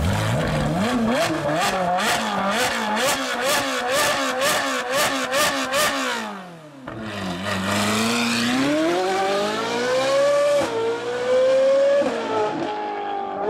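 Supercar engine revved in quick blips, rising and falling about twice a second with sharp cracks between them. After about six seconds the revs die away, then the car accelerates hard, the pitch climbing through two upshifts.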